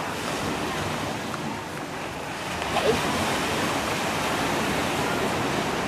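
Sea waves washing on the shore, a steady rushing surf.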